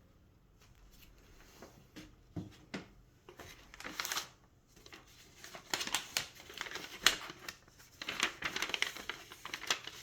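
Packaging being handled and unfolded: a few light clicks, then crinkling and rustling that grows busier in the second half.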